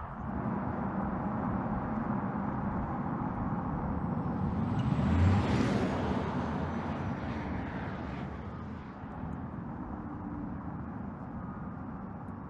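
Audi e-tron GT quattro electric car driving past: its tyre and motor noise swells to a peak about five seconds in, then fades away.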